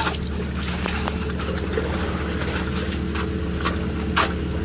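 An engine running steadily at an even pitch, with a few short sharp knocks or scrapes over it.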